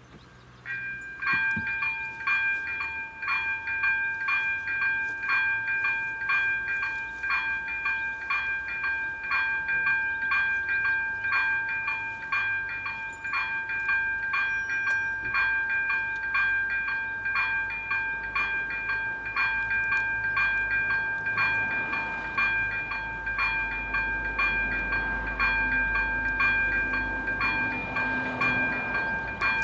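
Level crossing warning bell (AŽD 97 crossing) switching on and ringing. A steady high electronic tone comes in first, with regular dings, somewhat under two a second, layered over it. In the last several seconds the low rumble of an approaching train grows beneath the bell.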